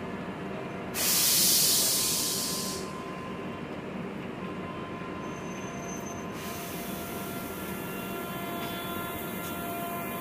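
Rajdhani Express train standing at a platform, heard from the coach door: a steady rumble with a faint whine. About a second in, a sharp burst of air hiss lasts nearly two seconds and is the loudest sound.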